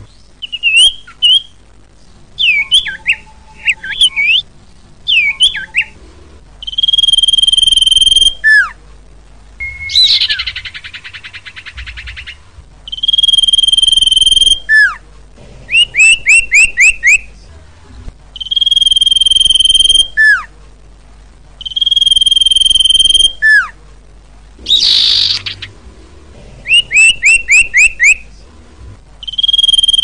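Common iora singing: long, steady whistled notes of about a second and a half, each ending in a quick falling slur, alternating with rapid runs of about five short down-slurred notes. Twice there is a harsh, scratchy rattle, about ten seconds in and again near twenty-five seconds.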